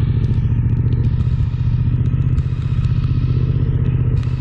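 Suzuki V-Strom 1050XT's V-twin engine running steadily while riding, a low, rapid, even pulsing.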